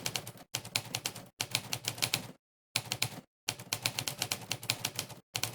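Monkeytype's typewriter sound effect: a sampled typewriter key clack played once per keypress, in quick runs of typing broken by short pauses, the longest a little before the middle.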